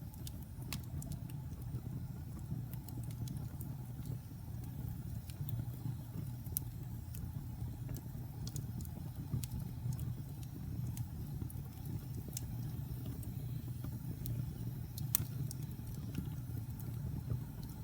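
Wood fire burning in a fireplace: a steady low rumble of the flames with scattered sharp crackles and pops, one louder pop about fifteen seconds in.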